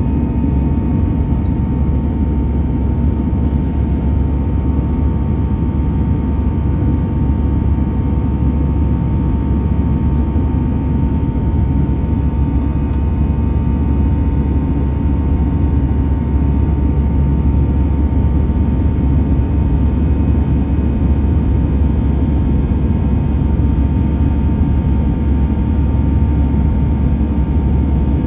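Airbus A320's jet engines running steadily: a loud, even low rumble with a constant whine.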